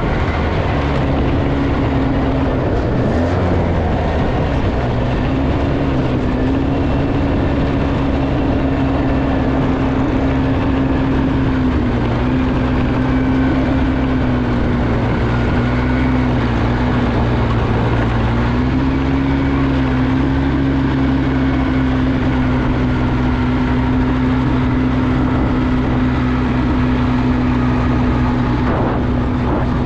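Off-road vehicle engine running steadily at a near-constant speed, its pitch wavering slightly up and down now and then.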